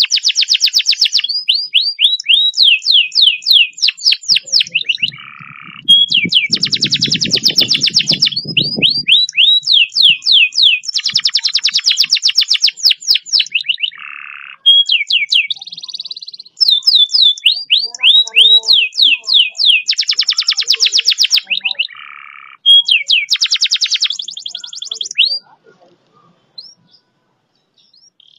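Canary singing long, fast rolling trills: strings of rapid repeated notes and quick downward-sweeping notes, in phrases broken by short pauses, until the song stops about 25 seconds in. A low rumble sits under the song from about six to nine seconds in.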